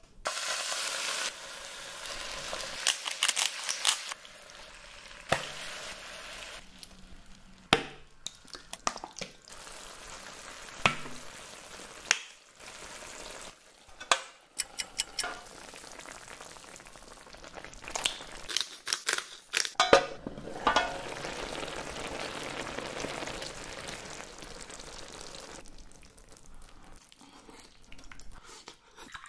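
Chicken fillet and broccoli sizzling and frying in an electric hot pot, in spells of hiss broken by sharp clicks and knocks of utensils and the pot's lid. Near the end it goes quieter, with eating sounds.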